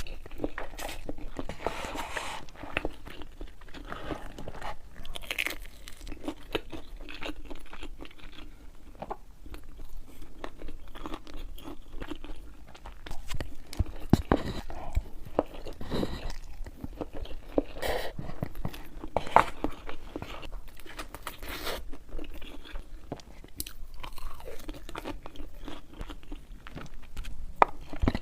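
Close-miked eating: biting into and chewing crunchy food, an irregular run of crunches with a few sharper, louder bites.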